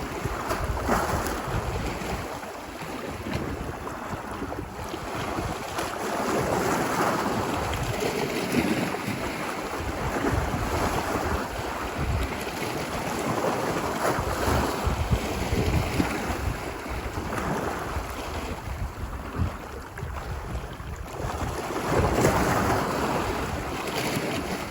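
Ocean waves washing onto a beach, the surf swelling and receding every few seconds, with wind buffeting the microphone.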